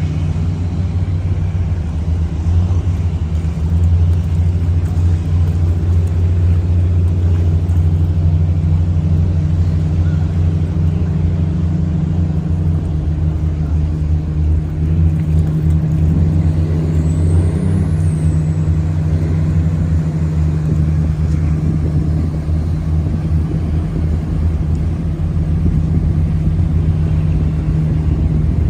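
A river tugboat's diesel engine running steadily under load while towing a cargo barge against the current, a deep, even drone with no change in pace.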